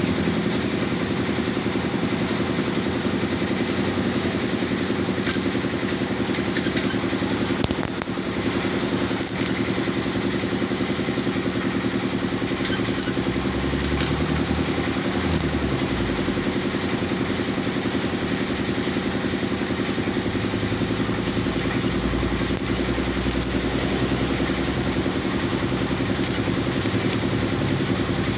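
Electric arc welding on a car's exhaust pipe: a steady humming buzz with irregular crackling.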